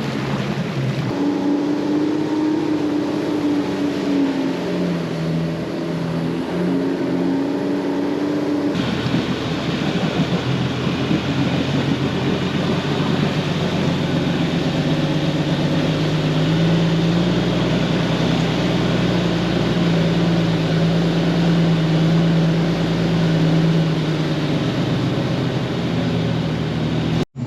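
Jeep engine running under load through a creek water crossing, its pitch rising and falling over a steady rushing noise. The sound changes abruptly about nine seconds in.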